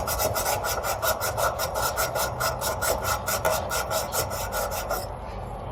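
Copper tubing being scrubbed bright by hand with an abrasive, in rapid back-and-forth scraping strokes of about six or seven a second that stop about five seconds in. This cleans the copper so the solder will take.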